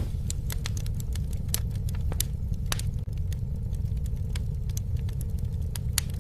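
Campfire burning: a steady low rumble of flames with irregular sharp pops and crackles, several a second.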